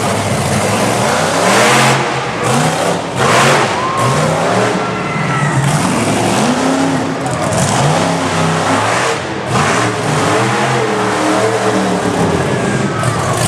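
Monster truck engine revving hard, its pitch rising and falling again and again, with loud noisy surges about two and three and a half seconds in.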